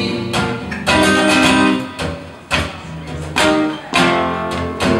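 Acoustic guitar strummed in a live song, chords struck in a steady pattern with no singing.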